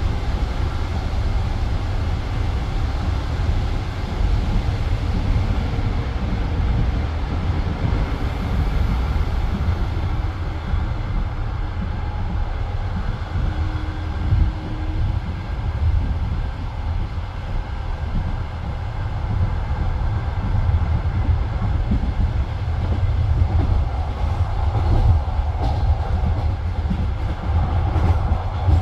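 A passenger train running along the track, its wheels rumbling and clacking over the rails, heard from inside the carriage.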